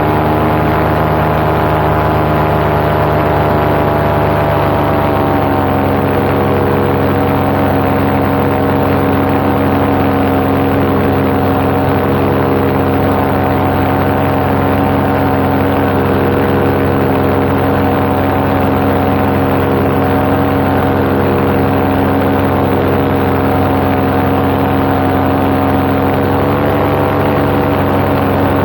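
Paramotor engine and propeller running steadily in flight. The pitch drops slightly about five seconds in and rises a little near the end.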